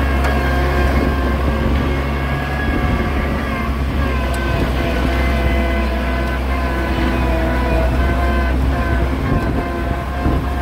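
Oliver 770 tractor's six-cylinder gasoline engine running steadily.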